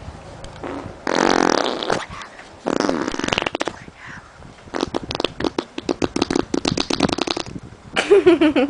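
Mouth blown hard against a bare leg, making fart-like raspberry noises: a few separate blasts, the longest a rapid flapping flutter of about three seconds.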